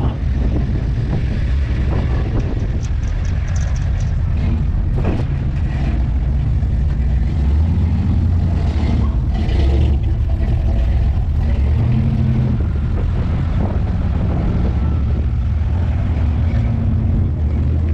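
Classic American cars' engines rumbling in a steady deep drone as a convoy of them rolls out.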